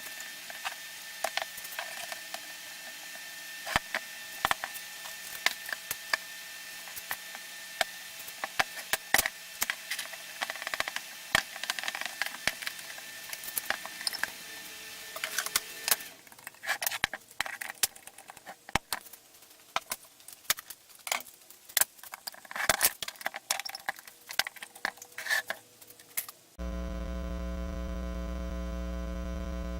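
Irregular clicks, taps and light clattering of small hard objects being handled, over a steady hum that drops away about halfway through. Near the end the sound cuts suddenly to a loud, steady electrical mains hum.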